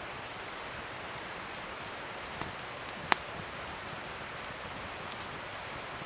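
Wood fire burning with a steady crackling hiss and a few sharp pops, the loudest about three seconds in.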